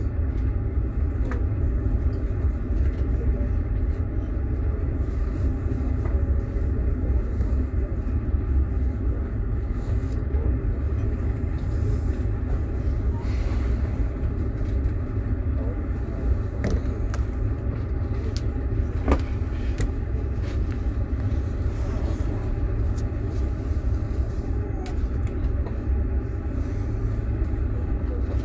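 Steady low rumble of a moving passenger train heard from inside a platzkart sleeper carriage, with occasional faint clicks over it.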